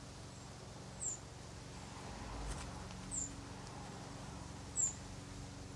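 A small bird calling outdoors: three short, high chirps that each slide downward, spaced about one and a half to two seconds apart, over a faint steady background hum.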